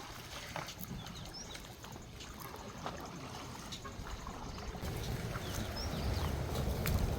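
Faint water trickling and lapping around a small makeshift boat on a river, with scattered small clicks and splashes. A low wind rumble on the microphone builds over the last couple of seconds.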